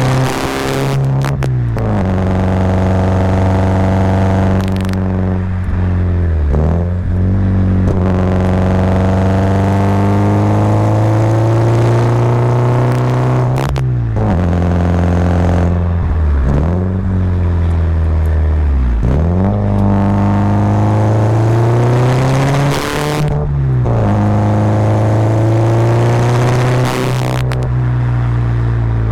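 Subaru Impreza WRX's flat-four boxer engine pulling uphill, its revs climbing and falling repeatedly. The pitch drops sharply at each of about half a dozen gear changes on the manual gearbox.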